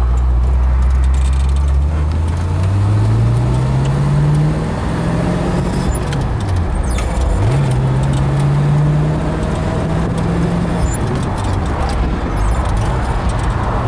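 1965 Pontiac GTO's 389 tri-power V8 pulling under acceleration with a manual four-speed. The engine note rises, drops sharply at a gearshift about halfway through, climbs again, then falls away as the throttle eases near the end.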